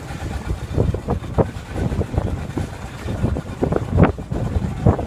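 Wind buffeting the microphone on an open boat, coming as irregular low thumps and rumbles several times a second, with a stronger gust about four seconds in.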